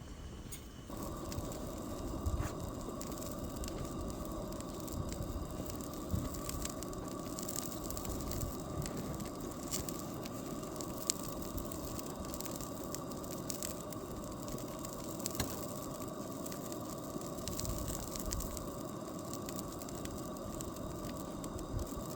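A fire crackling steadily, with scattered sharp pops over a constant hiss.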